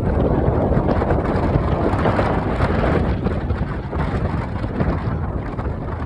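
Steady wind buffeting on the microphone from riding along on a bike, a dense rushing noise heaviest in the low end.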